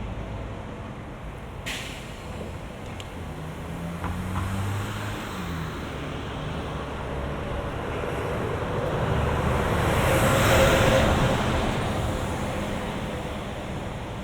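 Motor traffic passing on a road bridge, with engine hum and tyre noise. One vehicle swells up and passes close about ten seconds in, then fades. A short sharp click sounds near the start.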